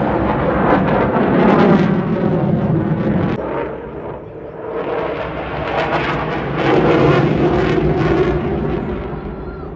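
Eurofighter Typhoon jet fighter's twin Rolls-Royce EJ200 turbofans, loud jet noise swelling and easing as the aircraft flies its display, with a dip about halfway through and fading near the end.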